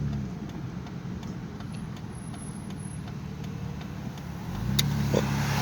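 Vehicle engine heard from inside the cabin: its hum eases off soon after the start to a quiet idle, then builds again about four and a half seconds in as the vehicle pulls away.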